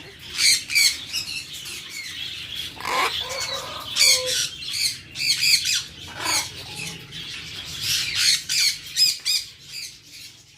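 Budgerigar chick begging with rapid, repeated high-pitched squawks while being hand-fed formula from a syringe. The calls fade near the end.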